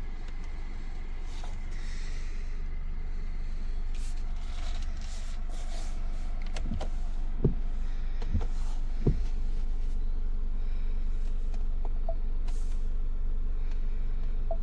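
Low, steady cabin rumble of a Ford Fiesta's 1.0-litre three-cylinder EcoBoost petrol engine idling. Three short knocks about a second apart come a little past the middle.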